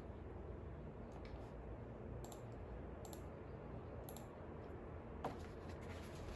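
Faint scattered clicks and taps, with a sharper click about five seconds in, over a steady low hum.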